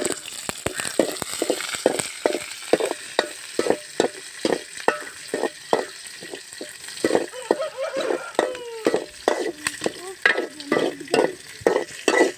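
Sliced small onions (shallots) and curry leaves sizzling in hot oil in a pan, with a spoon stirring and scraping against the pan in many short strokes.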